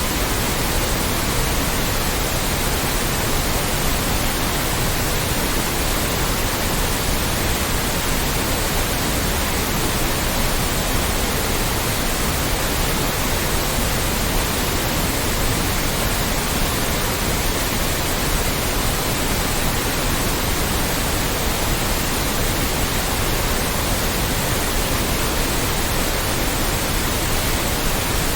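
Steady, loud white noise: an even, unbroken hiss spread across all pitches, with no change or events.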